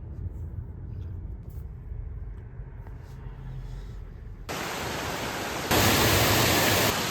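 A low rumble, then about four and a half seconds in a sudden switch to the steady rushing of a waterfall, louder for about a second near the end.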